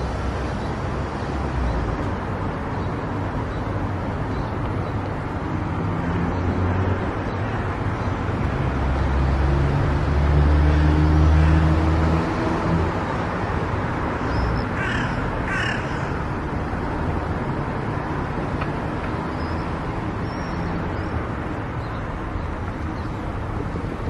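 Steady road noise of a car driving: a low engine and tyre rumble that swells for a few seconds around the middle. About 15 seconds in, two short, harsh, caw-like calls come about a second apart.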